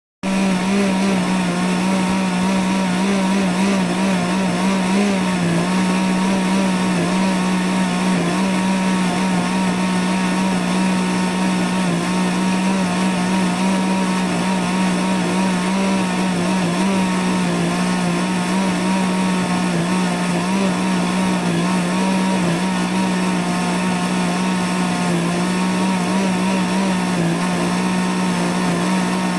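Electric kitchen blender running steadily at one speed: a constant motor hum and whir that wavers only slightly in pitch.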